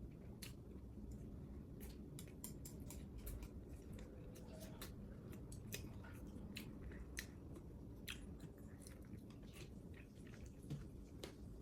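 A person chewing food, with irregular small crunches and mouth clicks over a low background hum.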